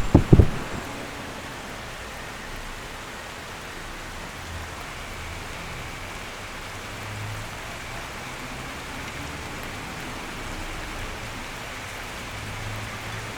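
Steady rain falling, an even hiss, with a couple of heavy low thumps right at the start.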